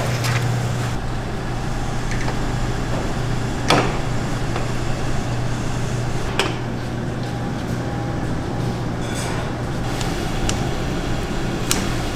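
A steady low machine hum, with a few sharp knocks several seconds apart.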